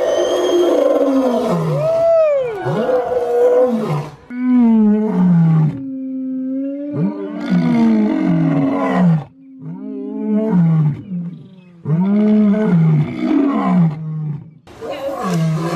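An animal giving a series of drawn-out, pitched calls that rise and fall, about a dozen in quick succession with brief pauses between groups.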